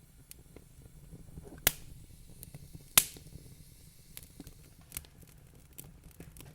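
Wood fire crackling in a fireplace: two sharp pops about two and three seconds in, with fainter scattered snaps over a low steady rumble.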